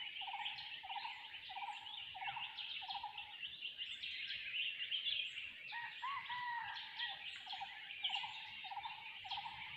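Mixed chorus of forest birds. One bird repeats a short low trilled note about twice a second over dense higher chirping, with a brief looping whistle about six seconds in.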